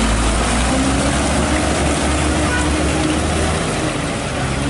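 Truck engine running steadily with a low rumble and broad mechanical noise; the deepest part of the hum drops away about three and a half seconds in.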